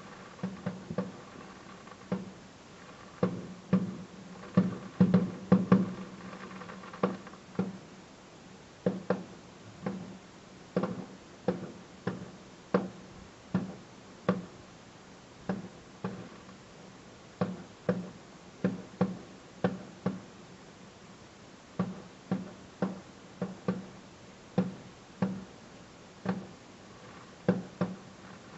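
Fireworks bursting overhead: an irregular string of sharp bangs, about one to two a second, each ringing briefly, with a dense cluster about five seconds in.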